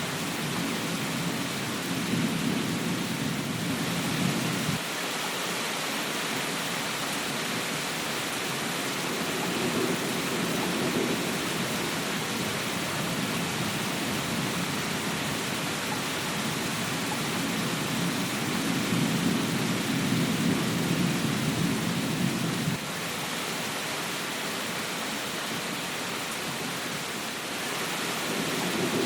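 Steady rain hiss with low rolling rumbles of thunder swelling up three times. Two of the rumbles cut off suddenly.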